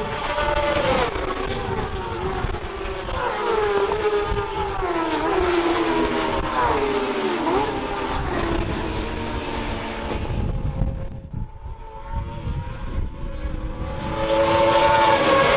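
Several racing motorcycles going past on the circuit, their engine notes rising and falling with gear changes and dropping in pitch as they pass. There is a short lull about eleven seconds in, then another bike comes up loud and passes near the end.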